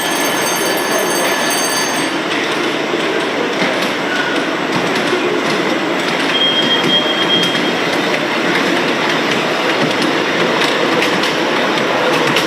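Model trains running on a model railway layout: a steady rolling noise of small wheels on track. A high steady whine stops about two seconds in, and quick clicks over the rail joints come near the end.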